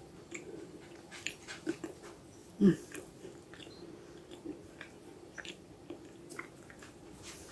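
A person quietly chewing a bite of stollen, with faint soft mouth clicks and one brief louder sound nearly three seconds in.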